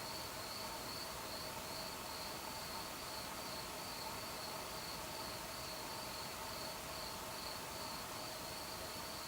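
Crickets chirping on a warm summer night: an even, high pulsing chirp repeating a few times a second, with fainter steady lower tones beneath.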